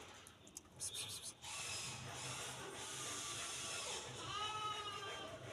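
Clicking and rustling, then a single high-pitched cat meow, slightly wavering, about four seconds in.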